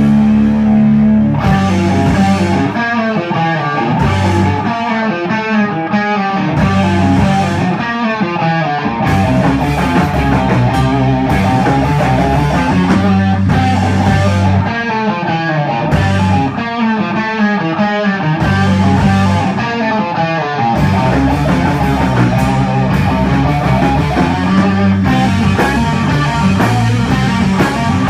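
Stoner rock band playing live: heavy electric guitar riffs over bass and drums.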